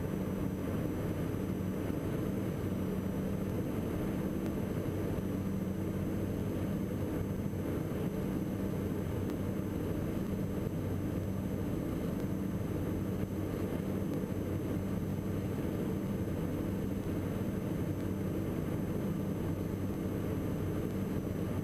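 Diamond DA42 NG twin-engine airplane heard from the cockpit: the engines and propellers make a steady drone with a low hum, and a faint high whine sits above it. Both engines are running.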